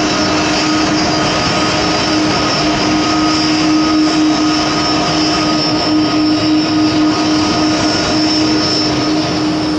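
Airbus A330 twin jet engines running steadily, a loud even noise with a constant whine.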